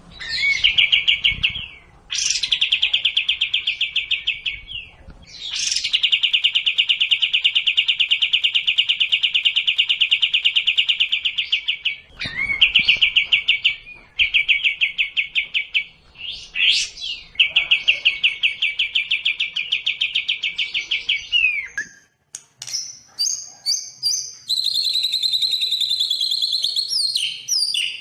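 Songbird song of sekoci and white-rumped shama (murai batu): long, very rapid trills repeated in bouts with short pauses. About 22 seconds in, the song changes to a run of varied, higher whistled notes.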